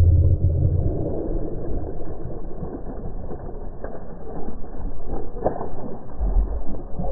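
Low, uneven rumbling on the microphone from wind and handling noise while a hooked fish is being fought from a kayak. A few sharp clicks come about four to five and a half seconds in.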